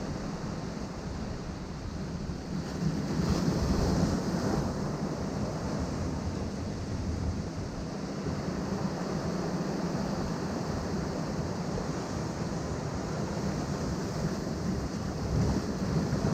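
Ocean surf washing against rocky shore, a steady rush of water with a louder wave breaking about three seconds in and another near the end.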